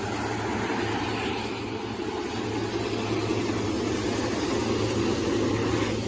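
Six-roll wood sanding machine running steadily, a constant low motor hum under a broad rushing noise.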